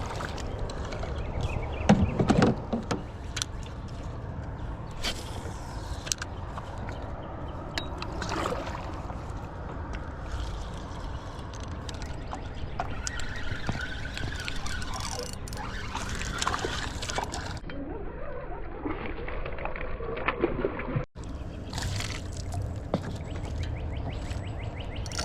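River water sloshing and splashing, with scattered knocks and rustles of handling, louder for a moment about two seconds in.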